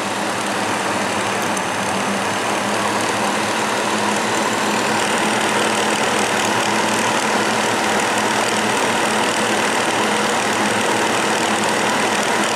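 Breezeway MBF-907 9-inch box fan running on medium: a steady rush of air over a low motor hum, growing a little louder a few seconds in.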